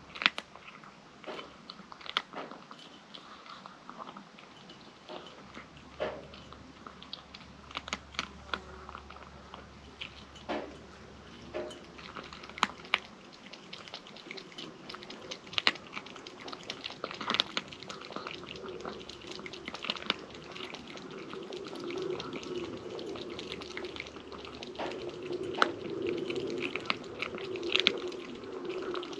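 Kitten eating, with irregular small crunching and chewing clicks from its food.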